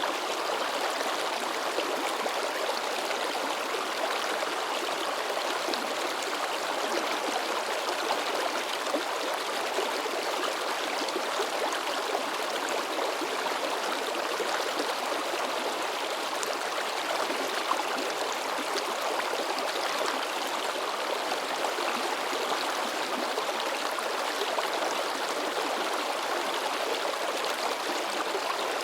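A mountain river rushing and splashing over rocks: a steady, even babble of water.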